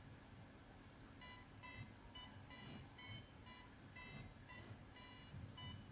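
Faint electronic chirping from the HIVE AI robot: a quick string of about a dozen short beeping notes of varying length, starting about a second in. This is the robot's sound response to what was just said to it.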